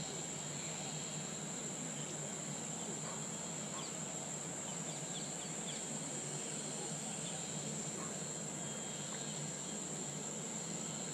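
Insects chirring steadily at a high pitch over a rural background hiss, with a few faint short bird chirps around the middle.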